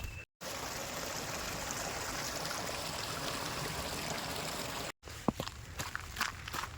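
Stream water running with a steady rushing flow, cutting in and out abruptly. After about five seconds it gives way to scattered footsteps on a trail.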